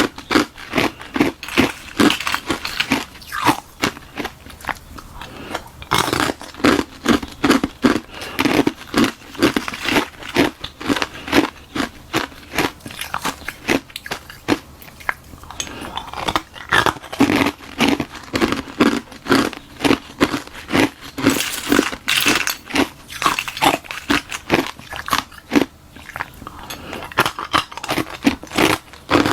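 Close-up crunching and chewing of hard ice: a hollow shell of frozen water stuffed with frozen milk tea being bitten and ground between the teeth, several crisp crunches a second, with two short lulls.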